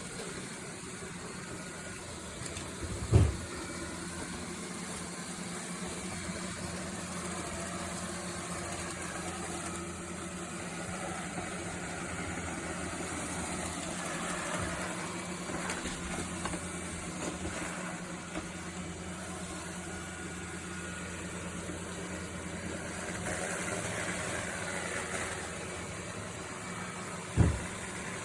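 Roborock Q7B+ robot vacuum running, a steady motor hum from its suction fan and brushes. Two short thumps, about three seconds in and again near the end.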